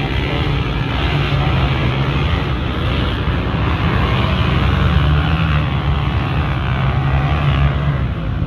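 Motocross motorcycle engines running steadily.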